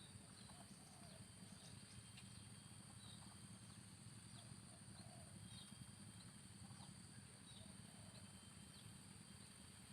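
Near silence: faint outdoor ambience with a steady high hum and scattered faint short chirps, a few every couple of seconds.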